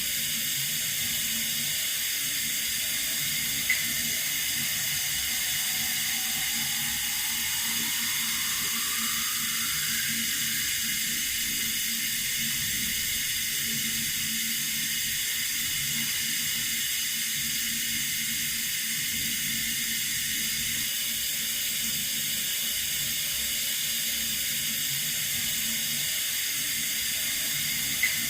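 Water running steadily from a tap, a constant hiss, with a brief click about four seconds in and again near the end.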